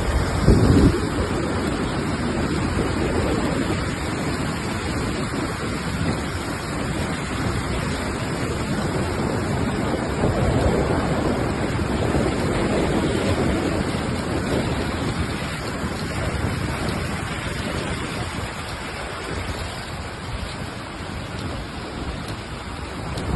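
Swollen river in flood, its water rushing steadily, with wind noise on the microphone. A brief low thump about half a second in.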